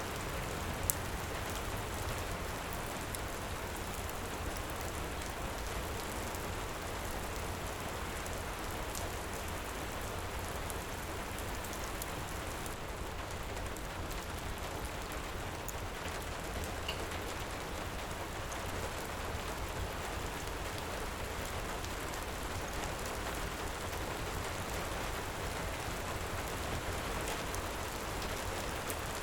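Heavy rain falling steadily, with a deep low rumble under it and a few faint crackles from a fireplace fire, one a little louder about a second in.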